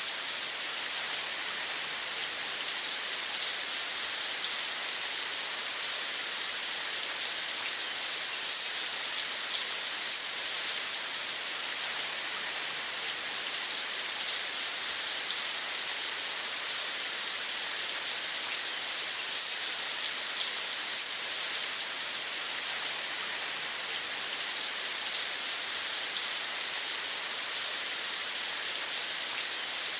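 Steady rain falling, an even dense hiss of fine drops that holds unchanged throughout.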